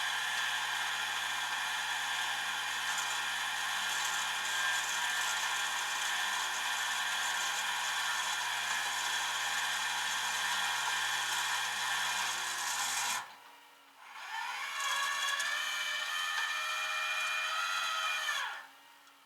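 A motor running steadily with a whine of many tones, then cutting off suddenly about thirteen seconds in. After a short pause it spins up again with rising pitch, runs for about four seconds, and winds down.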